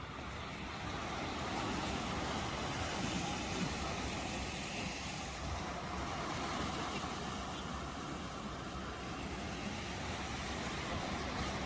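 Ocean waves washing in, a steady rushing noise that swells and eases slightly.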